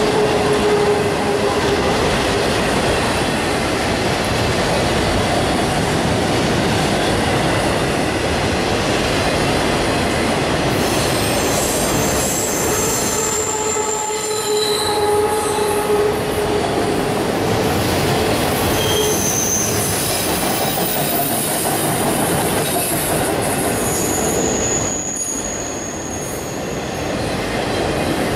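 A train's cars rolling past on the rails: a steady, loud rumbling clatter of wheels on track, with high-pitched wheel squeals that come and go, mostly in the second half.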